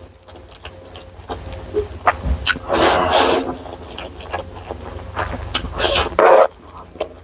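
Close-miked eating sounds: a person chewing, with wet mouth noises and a few short, louder bursts and clicks.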